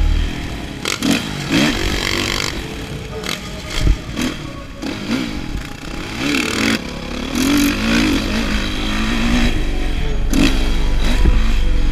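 Dirt bike engine revving up and falling back again and again, as the rider accelerates and shifts around the motocross track, over a steady rushing noise.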